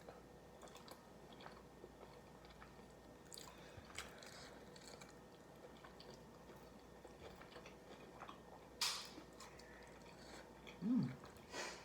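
Quiet close-up chewing and biting of food, with soft wet mouth clicks and two louder short noisy bites near the end. A brief hum-like vocal sound comes just before the end.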